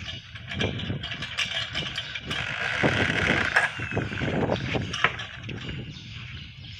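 Small homemade magnet-and-weight wheel device turning, its parts clicking and knocking irregularly, busier and louder in the middle.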